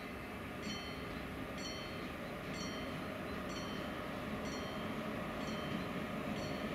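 HŽ series 1142 electric locomotive hauling passenger coaches on approach: a steady rumble that grows slightly louder. Over it a short bell-like ding repeats about once a second.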